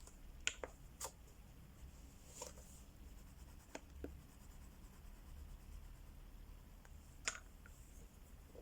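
Crayola wax crayons coloring on paper: faint rubbing strokes with a few scattered light clicks and taps, the sharpest about half a second and about seven seconds in.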